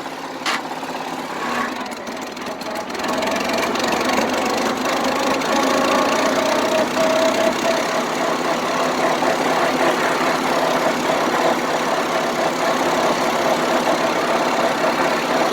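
International Harvester Cub tractor's four-cylinder engine running, getting louder about three seconds in and then holding steady.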